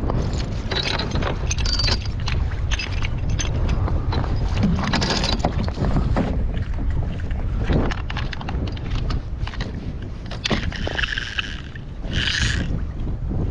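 Wind buffeting the microphone on a kayak at sea, a steady low rumble, with water sloshing against the hull and scattered knocks from handling gear on board. A couple of brief splashy hisses come near the end.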